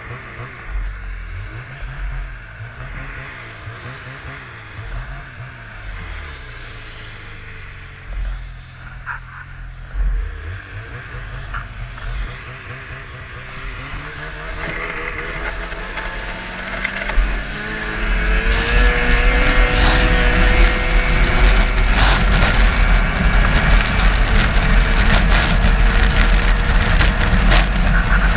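Race car engine heard onboard. Its revs rise and fall at moderate volume for the first half, then build from about halfway in to a loud, steady high-rev pull whose pitch climbs slowly.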